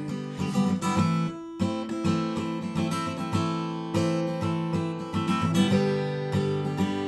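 Acoustic guitar strumming chords, with a short break about a second and a half in.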